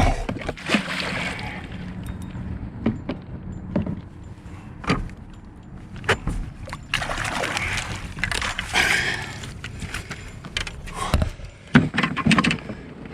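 Knocks and clatter against a kayak's hull, mixed with bursts of water splashing, as a fish is brought in.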